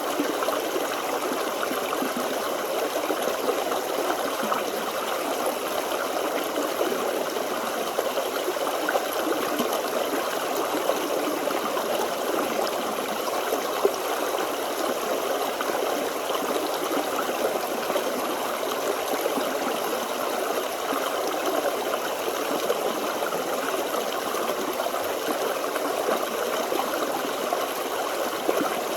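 Forest stream flowing over rocks: a steady, unbroken rush and babble of running water.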